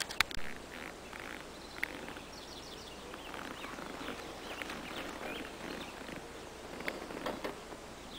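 Faint bird chirps over a light rustling background, with two sharp clicks right at the start.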